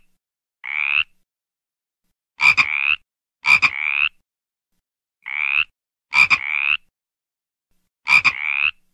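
Frog croaking repeatedly: six short croaks with silent gaps between them, each croak rising slightly in pitch. Some croaks are led by two sharp clicks.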